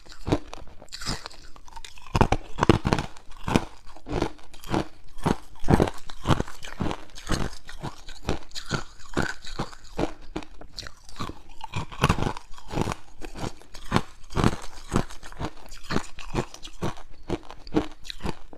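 Hard ice being bitten and chewed close to the microphone: a dense, irregular run of sharp crunches and cracks, several a second.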